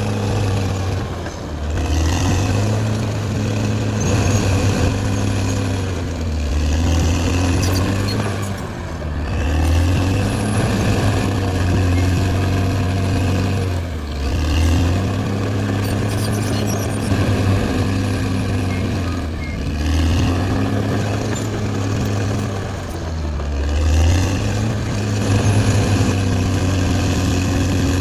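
Caterpillar D6R XL bulldozer's diesel engine working steadily, its pitch sagging and recovering every four to five seconds as the machine takes and sheds load.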